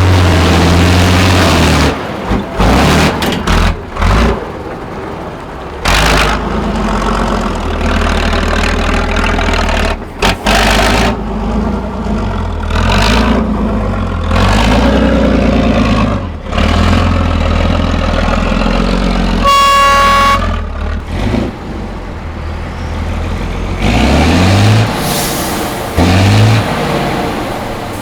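Heavy off-road trial truck diesel engine running hard under load, the note changing abruptly and rising as it revs late on. A short horn toot sounds about two-thirds of the way through.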